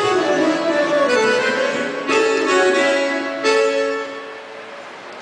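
Live band instruments at a sound check playing sustained keyboard chords, with new chords struck about two seconds in and again a second and a half later, the last one ringing out and dying away near the end.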